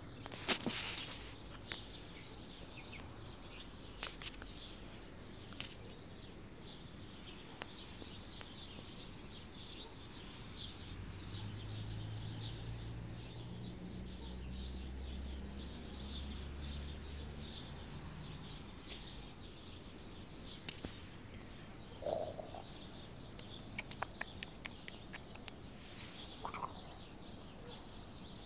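Small birds chirping in short, repeated high notes in the background, with scattered sharp clicks. A low hum swells and fades in the middle.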